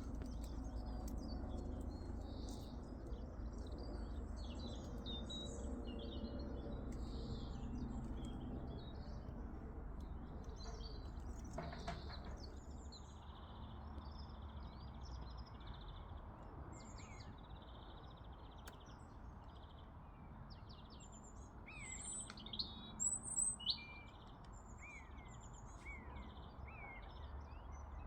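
Small birds singing and chirping, many quick twittering notes, over a low steady outdoor rumble. Just past two-thirds of the way through a few louder sharp calls stand out, followed by a run of short downward-sliding notes.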